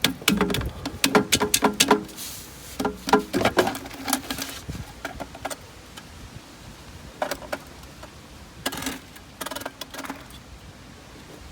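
Quick clicks and knocks of hard plastic pipe parts being handled and knocked together, dense for the first few seconds, then sparser, with a few more near the end.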